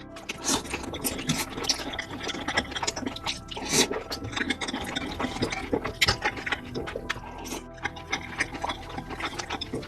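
Crunching and chewing of crispy fried chicken close to the microphone: a dense, irregular run of crisp crackles, with a few louder crunches about four and six seconds in.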